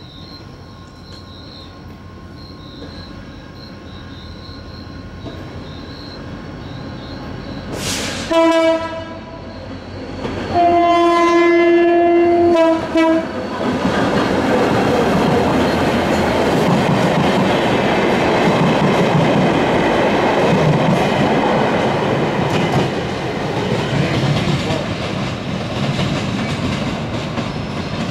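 Passenger train led by a CKD diesel locomotive approaching and passing at speed. Its chord horn sounds a short blast about eight seconds in, then a longer one of about two and a half seconds. From about fourteen seconds the locomotive and coaches go by, loud and steady, with wheels clattering over the track.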